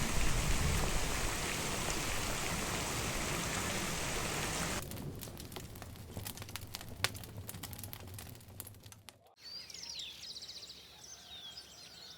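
Steady heavy rain for about five seconds, thinning to scattered drips and drops. After a sudden cut about nine seconds in, small birds chirp and sing.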